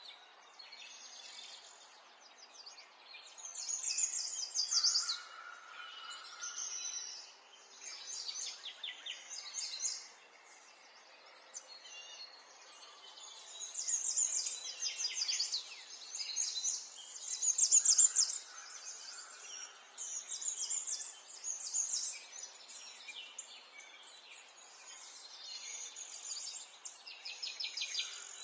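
Birds singing, with bouts of rapid high trills and chirps coming every few seconds over a faint steady background hiss.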